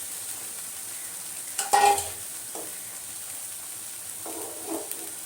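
Potato, green banana and long beans frying in oil in a pan with a steady sizzle, as a spatula stirs and scrapes them. A louder metal clink comes about two seconds in.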